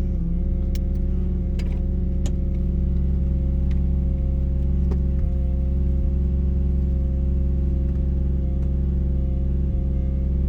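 Mazda RX-7's rotary engine idling steadily through an RE Amemiya Dolphin Tail 90 Curl aftermarket exhaust, heard from inside the cabin with the windows down. The pitch holds level, with a few light clicks in the first couple of seconds.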